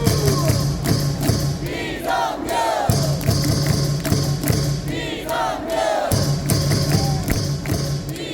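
Stadium cheering song playing over the loudspeakers with a large crowd of baseball fans singing along to a steady beat, the beat breaking off briefly twice.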